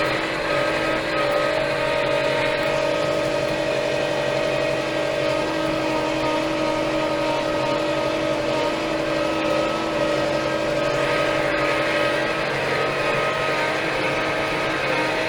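Steyr 4075 Kompakt tractor's four-cylinder Fiat Powertrain diesel engine running at a steady speed.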